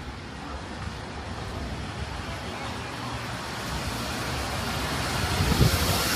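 City street traffic noise, growing louder toward the end as a vehicle draws close with a rising hiss and low rumble.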